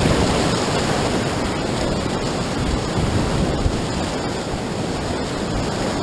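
Whitewater rapids rushing loudly and steadily, with wind noise buffeting the microphone.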